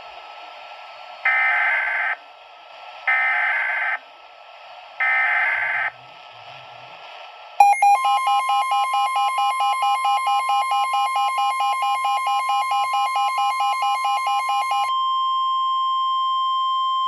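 Weather-radio emergency alert signal: three short bursts of data tones over radio hiss, then a rapidly pulsing alert tone over a steady warning tone for about seven seconds, leaving the steady tone alone near the end. It heralds a tornado warning broadcast by the National Weather Service.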